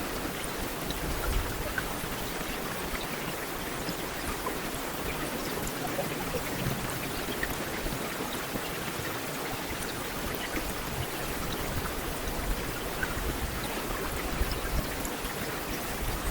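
Heavy rain falling steadily on a street, a dense even hiss with scattered individual drop ticks.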